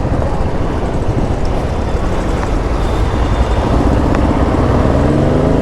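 Royal Enfield Bullet 500's single-cylinder engine running under way, with heavy wind and road noise. Over the last couple of seconds the engine note rises steadily as the bike accelerates.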